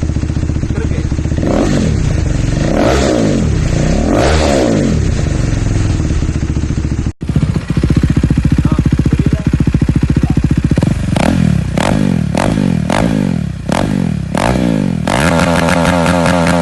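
Motorcycle fitted with an Austin Racing aftermarket exhaust with no dB killer, revved in short blips: three rising-and-falling revs, a sudden cut about seven seconds in, then a second run of five quick throttle blips before it settles to a steadier, higher engine note near the end.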